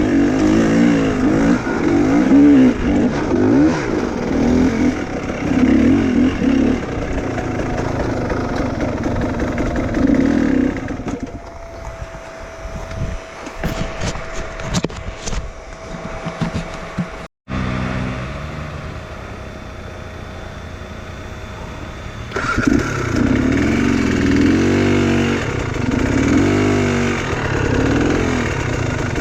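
Enduro motorcycle engine revving hard under load, its pitch rising and falling constantly. About ten seconds in it falls back to a low run with a few knocks, and near the end it revs up hard again.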